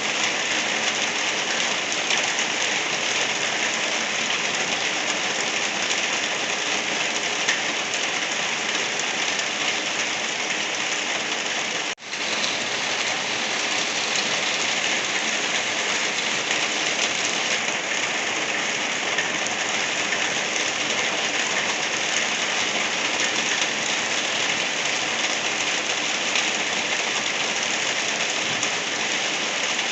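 Steady rain falling, an even hiss of drops, that dips out for an instant about twelve seconds in.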